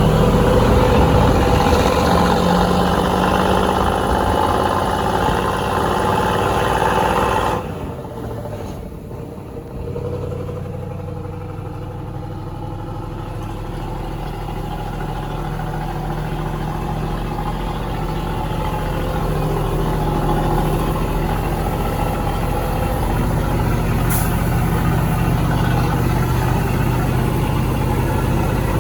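Heavy dump truck's diesel engine running steadily at idle. About eight seconds in the sound drops off abruptly, then an engine builds slowly back up and runs steadily again.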